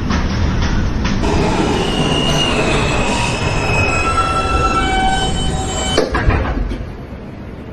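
New York City subway train braking into a station, with steady rumble and the wheels squealing in several high pitches through the middle. About six seconds in come a couple of knocks as it comes to a stop, and the noise drops.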